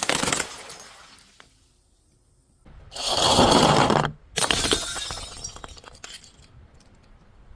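Glass bottles smashing in three crashes: one at the start that dies away over about a second, a longer one around three seconds in, and a third about four and a half seconds in, followed by a tinkling of shards.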